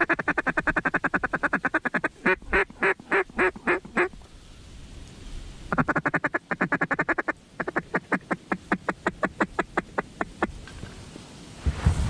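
Mallard duck call: fast feed chatter, then a string of louder quacks, a short pause, another burst of feed chatter and a run of quacks that fades away, calling to mallards circling the spread. A low rumble comes in right at the end.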